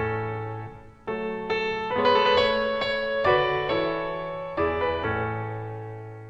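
Piano music: a series of struck chords that ring and decay, with a last chord fading away near the end.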